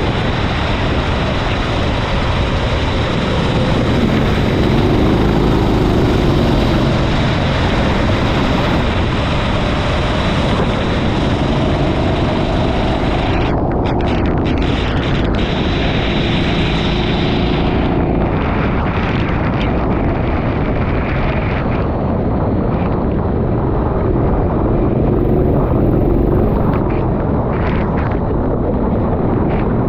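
Racing kart engine running hard, its pitch rising and falling with throttle through the corners, over a steady rushing noise of wind and wet-track spray.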